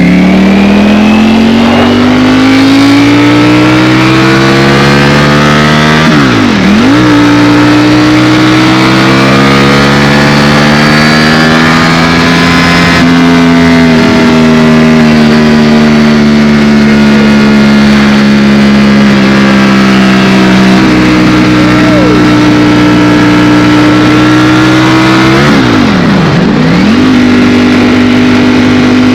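Ducati Streetfighter V4 S's V4 engine running under way, its pitch climbing and then holding steady for long stretches. Twice, about six seconds in and near the end, the note drops sharply and climbs straight back.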